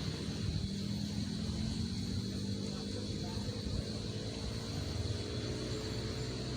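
A vehicle engine running steadily, a low hum holding a nearly constant pitch.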